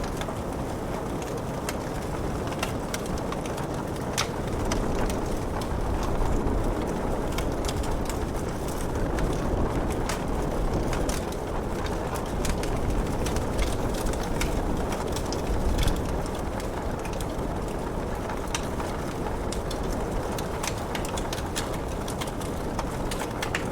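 Wood fire crackling in a fireplace, with many sharp irregular pops and snaps over a steady hiss of rain.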